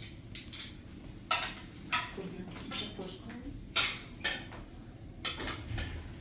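Dishes and cutlery clinking and knocking as they are set out, with about seven sharp clinks spread over a few seconds.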